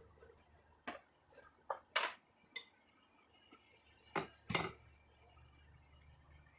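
Scattered light metallic clinks and knocks, like steel tools or stock being handled and set down, about nine in all. The loudest comes about two seconds in, and a close pair follows around four seconds in.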